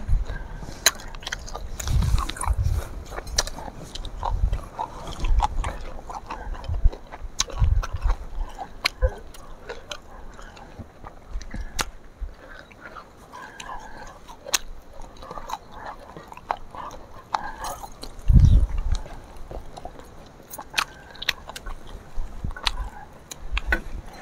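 Close-up eating sounds: chewing and biting with many small wet clicks and smacks of the mouth. Low rumbles of wind buffeting the microphone come and go, the strongest about two-thirds of the way through.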